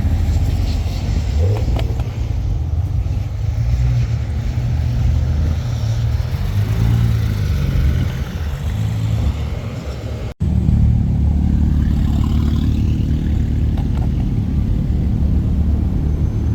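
Car engine running with a low rumble, rising and falling briefly around the middle, then settling into a steadier idle after a momentary cut about ten seconds in.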